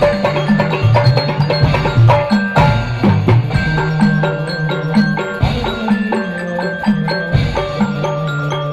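Hadrah ensemble playing an instrumental passage: hand drums and kendang beating a steady rhythm under a bass line and a melody on a pitched instrument.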